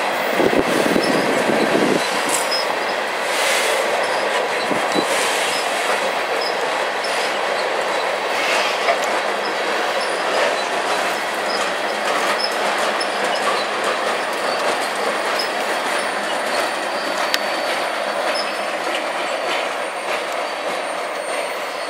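Loaded ballast hopper cars of a slow freight train rolling past, their steel wheels running on the rail with scattered clicks and a thin high wheel squeal. The sound eases off slightly near the end as the last car goes by.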